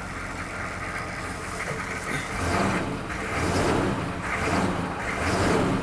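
Chevrolet K2500's 6.5-litre turbo diesel V8 idling, then revved in three swells from about two seconds in, with a little stutter on the rev. The owner thinks it is probably not getting fuel; he has found its lift pump not running.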